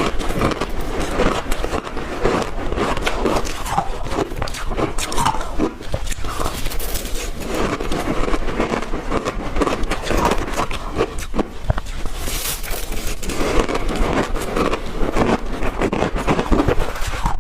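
Ice being bitten and chewed close to the microphone: a dense, continuous run of crackly crunches.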